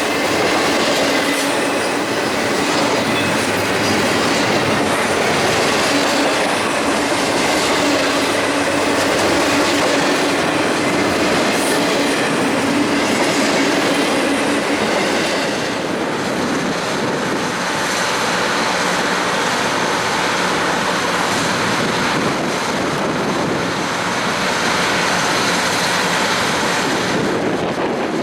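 Train rolling along the rails with a steady, loud running noise. A constant hum is heard through about the first half.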